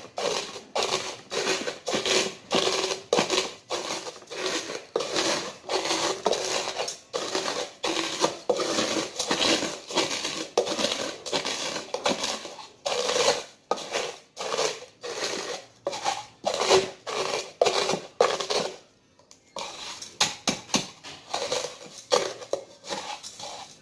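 Doritos tortilla chips being crushed into crumbs for a coating: a fast, even run of crunching strokes, about three a second, with a brief pause near the end.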